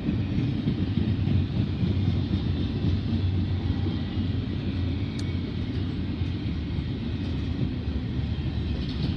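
BNSF double-stack container train rolling past at speed: a steady low rumble of the cars' wheels on the rails.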